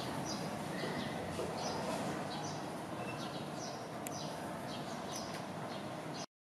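Small birds chirping in short, repeated calls over steady outdoor background noise, cutting off abruptly near the end.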